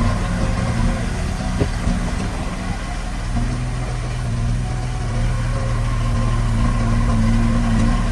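Heavy diesel engine of earthmoving machinery running steadily, its note swelling slightly now and then, with a brief knock about a second and a half in.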